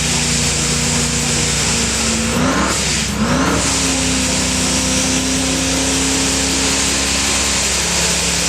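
Drag-racing vehicle's engine held at high, steady revs; about two and a half seconds in, the pitch drops and then climbs back to the same note.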